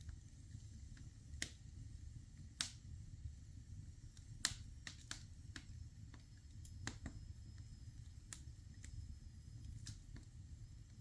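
Wood fire crackling in a fireplace: sharp pops at irregular intervals, a dozen or so, over a low steady rumble.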